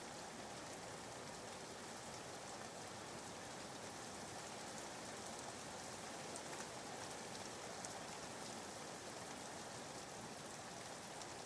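Soft, steady rain ambience: an even patter of rain with faint scattered drops, laid in as background white noise.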